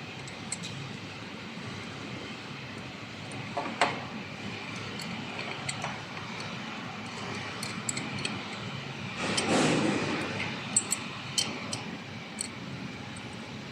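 Steady hum of the cutting machine and workshop, with scattered clicks, a knock about four seconds in and a brief rushing noise about nine and a half seconds in, as an aluminium profile is handled and positioned. No saw cut is heard.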